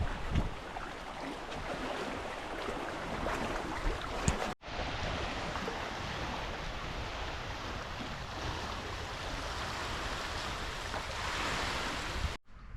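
Lake water washing with a steady noisy rush, likely small waves; the sound cuts off abruptly and resumes twice, once about halfway through and once near the end.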